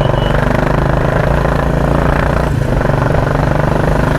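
Royal Enfield Classic 350 single-cylinder engine running through a loud aftermarket exhaust, a steady, rapid thumping that its owners call the 'helicopter sound'.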